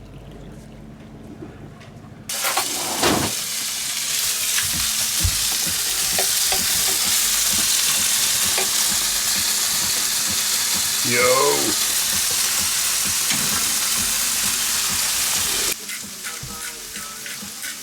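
Food sizzling and frying in a hot pan: a loud, steady hiss that starts abruptly a couple of seconds in and cuts off suddenly near the end, with a brief falling tone partway through.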